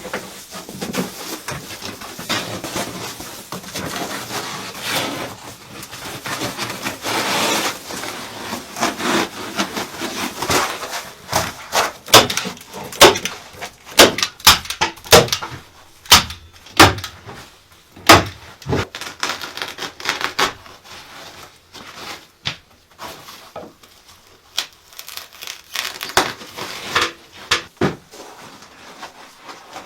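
Hand work on wood: rustling and scraping, then from about twelve seconds a run of sharp wooden knocks and cracks, fading to scattered quieter knocks.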